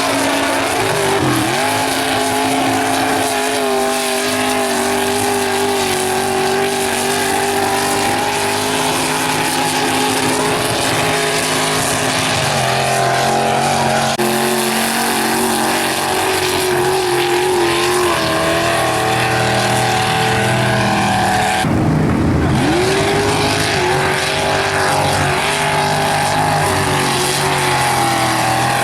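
Mega trucks' engines held at high revs while bogging through a mud pit, with several engines running at once. The pitch dips and recovers as they load up, with a sharp drop and climb back about 22 seconds in.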